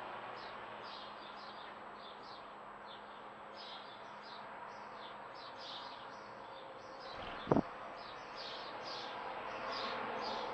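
Small nesting songbirds chirping: a rapid run of short high chirps, a few a second, over a steady background hiss. A brief low thump, the loudest sound, comes about seven and a half seconds in.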